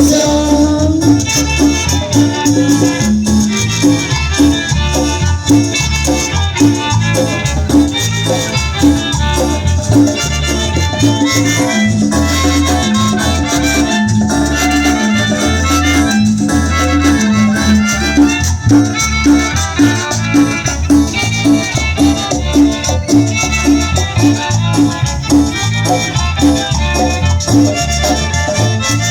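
Chanchona band playing upbeat Latin dance music, with a steady, repeating bass line and shaker percussion.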